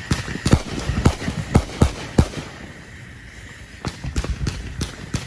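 Fireworks going off: a run of sharp bangs, about two to three a second, then a pause of about a second and a half before another run.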